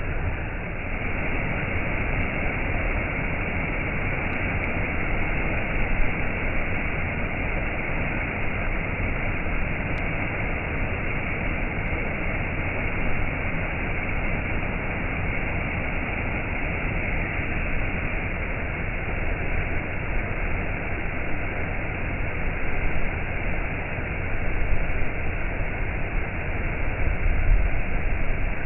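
Waterfall rushing in a steady roar of falling water, heavy in the low end, with small swells in loudness near the end.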